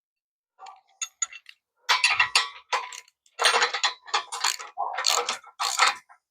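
Metal tools and parts clicking and clattering in irregular runs, denser from about two seconds in.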